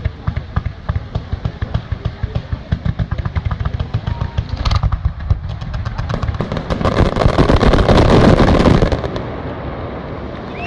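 Fireworks display: a rapid string of bangs, several a second, building to a dense crackling barrage about seven to nine seconds in, then dying away.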